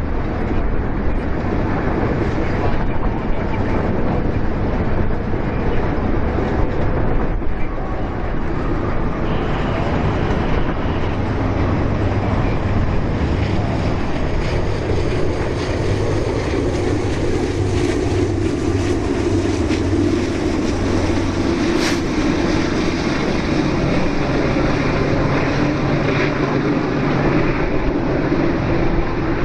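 BNSF freight train passing, its diesel locomotives running with a steady loud rumble and a held low engine drone that grows stronger about halfway through.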